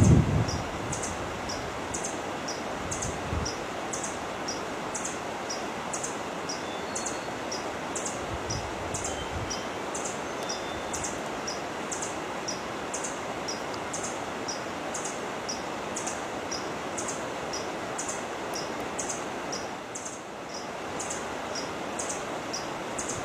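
A small bird repeating a thin, high two-note call, one high note and one slightly lower, at a very even pace of about once a second. Behind it is a steady rustle like wind in leaves.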